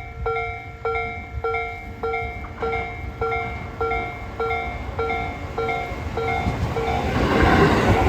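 Level-crossing warning bell ringing, a struck bell-like tone repeating a little under twice a second, which fades after about six seconds. Over the last two seconds the rumble of an arriving Tobu 10030-series electric train builds up and drowns it.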